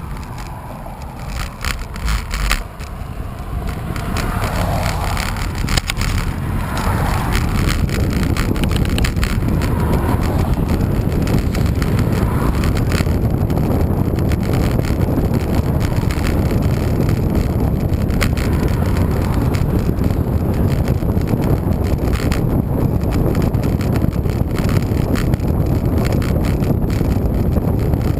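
Bicycle riding along, its tyre and road noise mixed with wind rumbling on the microphone; it grows louder about four seconds in and then stays steady.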